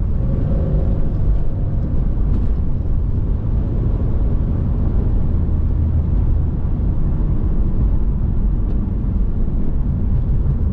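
Steady engine and road noise from a V6 Pontiac Firebird driving on a wet road in the rain, a constant low rumble with no change in revs.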